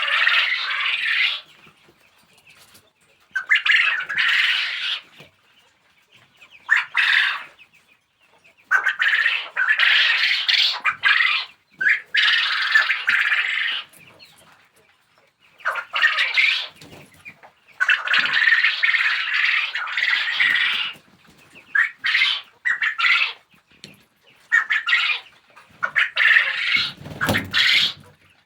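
Texas quail calling in harsh, squawking bursts of one to three seconds, again and again with short pauses between. A low thump comes near the end.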